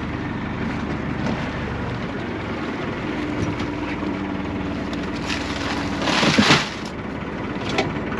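Boat engine running steadily, with wind on the microphone. A short, loud rush of noise about six seconds in.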